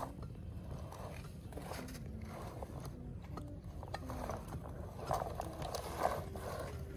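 Small geared motor of a toy construction vehicle whirring, its pitch shifting up and down, with scattered clicks and rustling scrapes as the toy works on a model bridge site.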